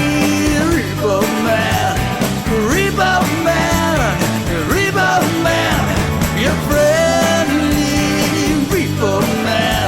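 Rock song playing: full band with bass and drums under a lead line that slides and bends in pitch, with no sung words.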